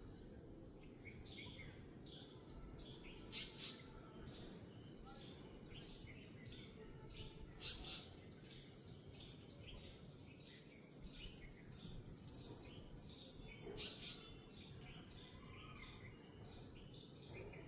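Birds chirping repeatedly in the background, short high chirps with a louder call every five seconds or so, over a faint low background hum.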